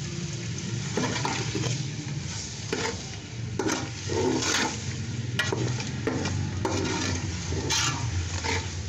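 Chicken pieces with onions and freshly added chilli powder, salt and chilli flakes sizzling in hot oil in a metal pot while a spatula stirs them. The spatula scrapes and knocks against the pot many times, over a steady low rumble: the masala is being roasted (bhuna) with the chicken.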